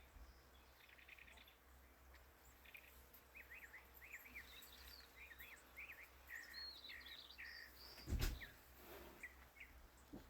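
Faint birdsong: a run of short, quick chirps repeated over and over. A single sharp knock comes about eight seconds in.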